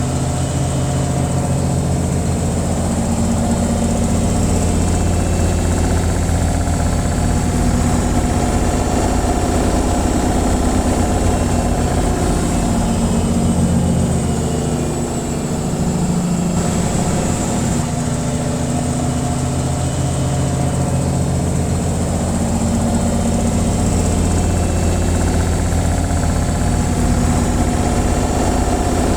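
Washing machine on its spin cycle: a steady, loud motor hum and drum rumble, easing briefly about halfway through.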